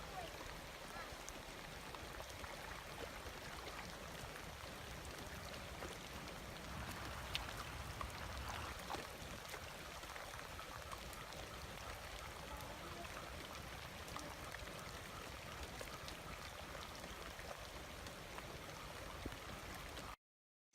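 Faint water sounds, light trickling and small splashes, with a few soft ticks. It cuts off just before the end.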